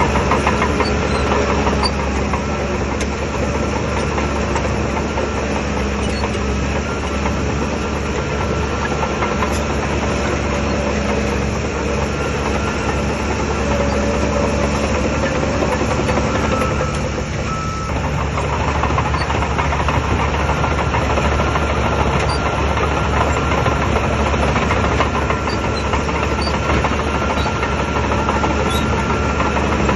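Shantui DH17 bulldozer's diesel engine running steadily under work, dipping briefly a little past halfway.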